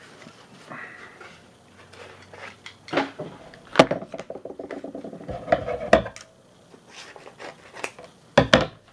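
Hard items clicking and clattering as they are handled, with a fast rattle in the middle and a few sharp knocks. This is the sound of mail and card holders being handled on a table.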